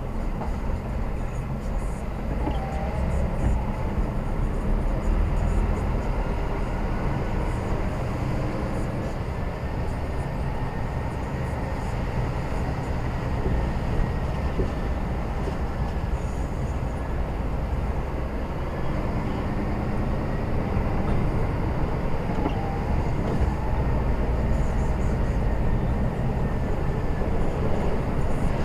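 Heavy goods lorry on the move, heard from inside the cab: steady low rumble of the diesel engine and road noise.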